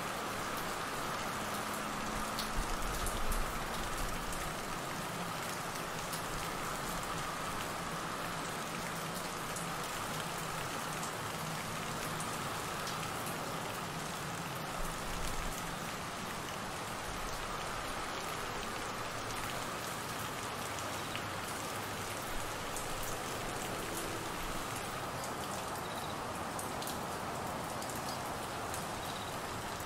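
Heavy monsoon rain falling steadily on trees and grass, with crickets calling in a continuous steady band underneath.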